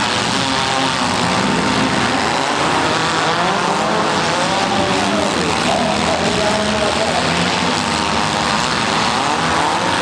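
Several compact demolition-derby car engines running and revving together in a loud, steady din, their pitch rising and falling.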